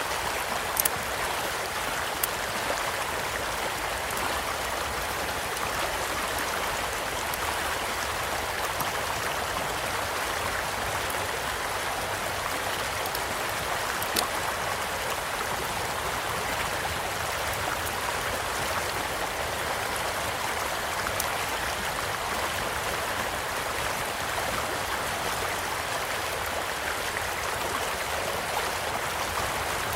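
Steady rush of a gently flowing stream, with a campfire crackling over it in a few sharp pops; the loudest pop comes about a second in.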